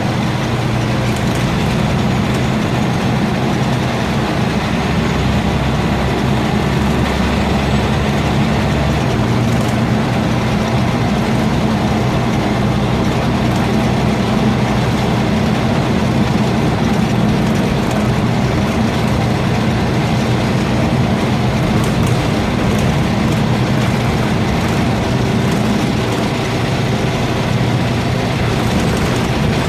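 Scania N230UB bus's diesel engine running steadily, a low droning hum that shifts in its lowest tone about nine seconds in.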